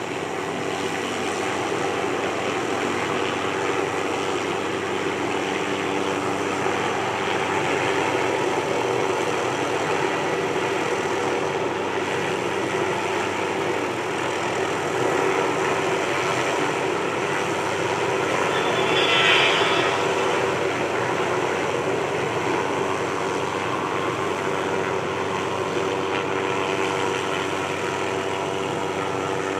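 Tree-trimming helicopter with its suspended aerial saw running: a steady engine and rotor drone, briefly louder and harsher about two-thirds of the way through.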